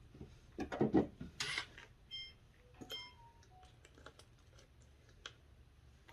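A run of sharp clicks and knocks from parts being handled, loudest about a second in. Two short electronic beeps come a little after two seconds and near three seconds, then a few scattered clicks.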